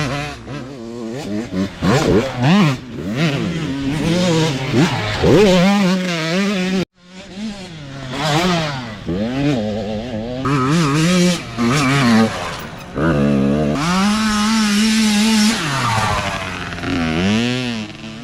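Several youth dirt bike engines revving as they ride past, their pitch repeatedly climbing and falling with throttle and gear changes, with more than one bike heard at once. The sound drops out abruptly for a moment about seven seconds in.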